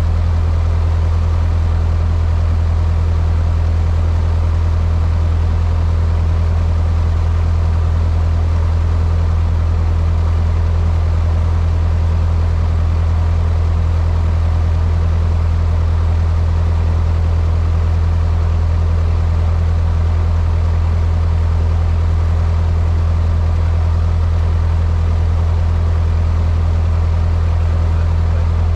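Cessna 152's four-cylinder Lycoming O-235 engine and propeller running steadily, heard inside the cockpit as a loud, deep, even drone with no change in pitch or level.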